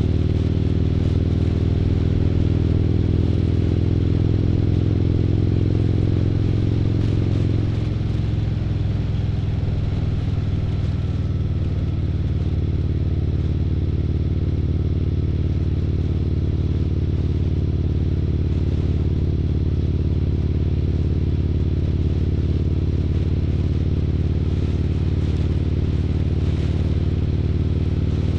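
Harley-Davidson CVO Street Glide's V-twin engine running steadily under way at road speed. About eight seconds in, its note changes and gets slightly quieter.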